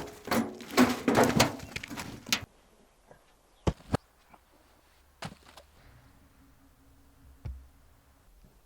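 Wooden firewood pieces clattering and knocking together in a quick run for about two and a half seconds, then a few single sharp wooden knocks, two of them close together.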